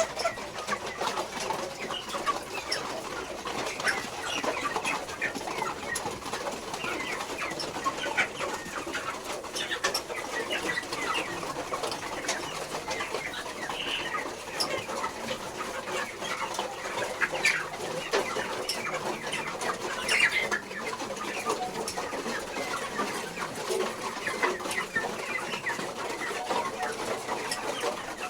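A large flock of broiler chickens, many overlapping clucks and short calls at once in a continuous chatter, with scattered clicks.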